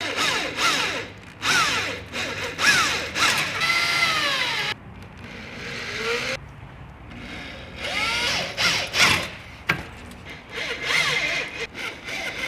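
Power drill run in several bursts, its motor pitch sweeping up and down as the trigger is squeezed and eased, drilling mounting holes.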